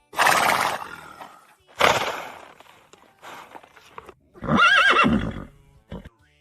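Horse neighing: four calls in a row, the last a longer whinny with a wavering pitch.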